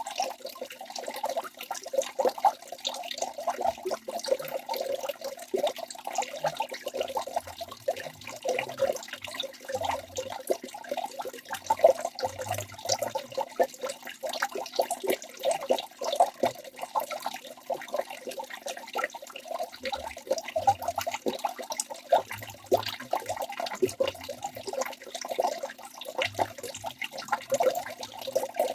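Waterfall water splashing and rushing steadily, a dense continuous patter of small splashes.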